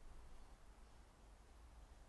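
Near silence: faint steady outdoor background hiss with a low rumble.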